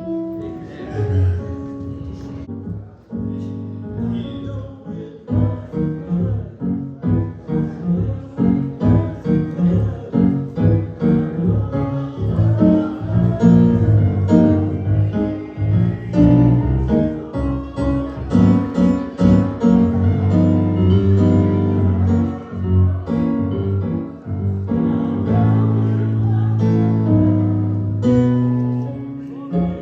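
Keyboard music with rhythmic chords over a bass line.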